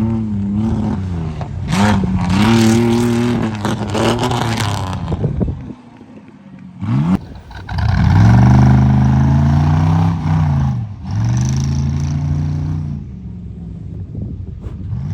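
Off-road competition truck engine revving hard, its pitch climbing and falling with each burst of throttle. It drops off abruptly about six seconds in, then picks up again in a long rising pull.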